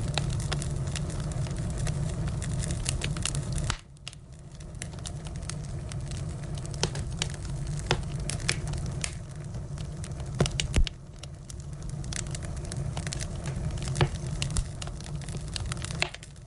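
Firewood burning in a fire, crackling with many small pops over a steady low rumble. A few louder snaps come about ten and fourteen seconds in.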